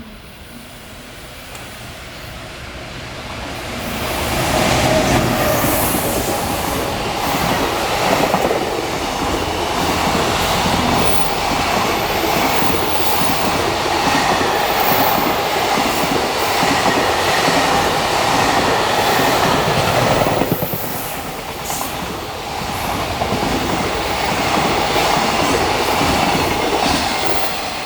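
Freight train approaching and passing, its wheels running over the rails as the wagons go by. The sound builds over the first few seconds, holds loud with a brief dip about two-thirds of the way through, and eases off near the end.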